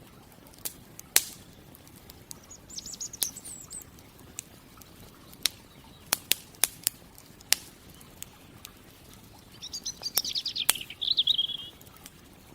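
Campfire crackling with sharp, scattered pops, the loudest about a second in. A songbird sings two short high phrases over it, the second, near the end, running into a fast trill.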